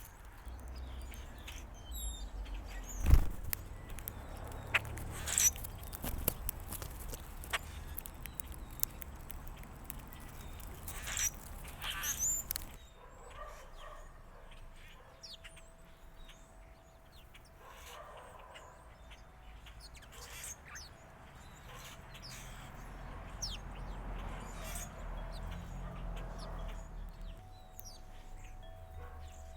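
Outdoor backyard ambience with short, high bird chirps and calls scattered through the first half, among sharp clicks and knocks, the loudest about three seconds in. The second half is quieter, with a faint steady hum and a low rumble.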